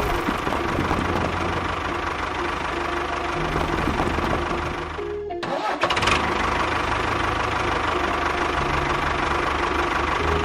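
A small engine running steadily, cutting out briefly about five seconds in, then running on.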